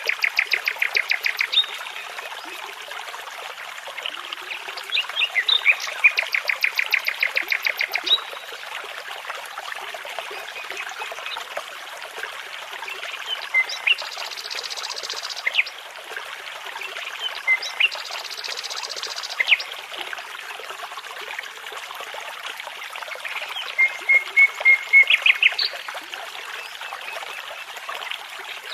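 Nightingale singing in separate phrases of fast repeated notes, some lower and some higher and buzzier, over the steady rush of a babbling brook.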